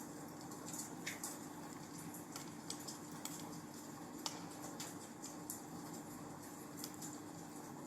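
Wood fire crackling in a fireplace: irregular small pops and snaps over a steady hiss, with one sharper pop about four seconds in.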